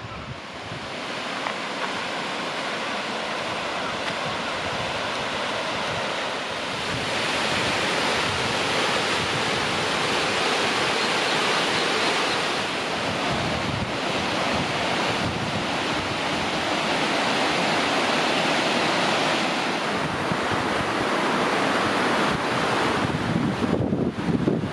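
Waterfall's rushing water, a steady full noise that grows louder about seven seconds in and holds.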